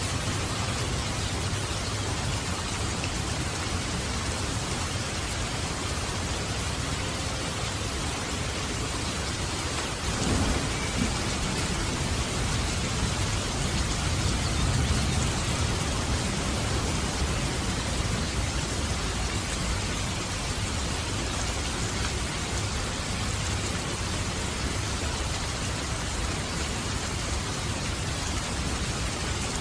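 Steady heavy rain falling, with a roll of thunder that breaks suddenly about ten seconds in, rumbles low for several seconds and then fades back under the rain.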